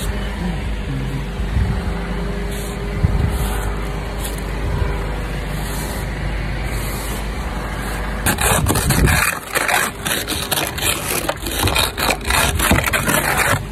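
Car engine idling with a steady low hum. About eight seconds in, a run of loud, irregular crunching, scraping strokes in snow starts and takes over as the hum fades out.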